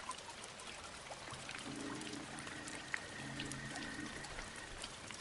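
Rain falling with water pouring and trickling, many small drops hitting close by. A faint low hum of unclear source comes in about a second and a half in and fades out after about four seconds.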